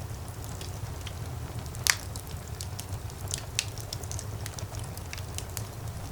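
Wood fire burning in a fireplace: a low steady rumble of flames with scattered irregular crackles and pops, one louder pop a little under two seconds in.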